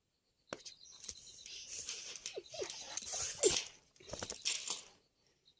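A pet dog play-fighting: scuffling and rustling with a few short, falling yips or whines, the loudest about three and a half seconds in.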